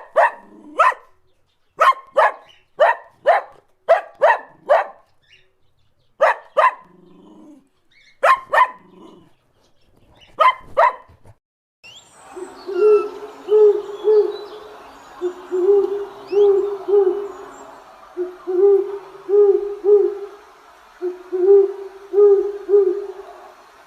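Animal calls in two parts: a run of short, sharp barks, some in quick pairs, then, after a cut about halfway, repeated low hooting calls in groups of two to four over faint background birdsong.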